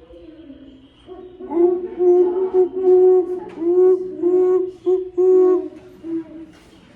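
A series of about eight owl hoots, each held briefly and dropping in pitch at its end, starting about a second and a half in.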